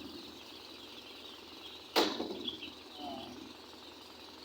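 Broiler chicken flock in a shed: a low steady murmur with a few faint chirps, and one sudden sharp burst about two seconds in, the loudest sound, dying away within half a second.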